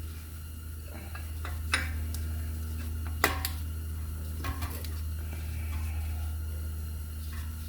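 Sharp metal clinks and taps as a greased brake caliper slide pin is worked into its caliper bracket, a few separate strikes over a steady low hum.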